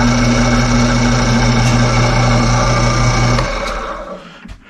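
Drill press motor running steadily with a hum while drilling into a bolt held in a vise. It is switched off about three and a half seconds in and the spindle winds down to quiet.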